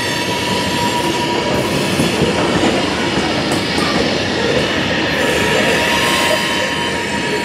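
Freight train cars rolling past on an industrial spur, steel wheels squealing with a thin steady tone over the loud rumble and rattle of the cars.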